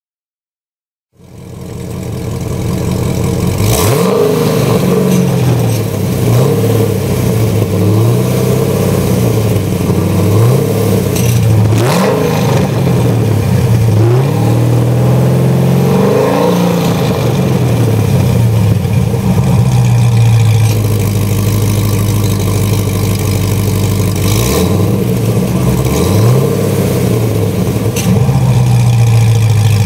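Corvette C6 Z06's 7.0-litre LS7 V8 through Melrose long-tube headers and Billy Boat Fusion mufflers, idling and revved several times, the pitch rising and falling with each rev. The sound sets in about a second in.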